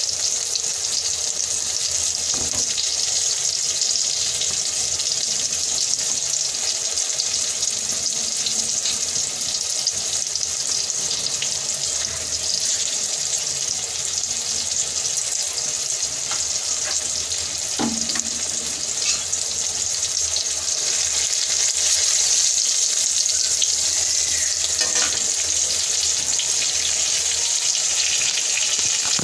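Food frying in oil in a wok on a gas stove, a steady sizzle, with a few light knocks now and then.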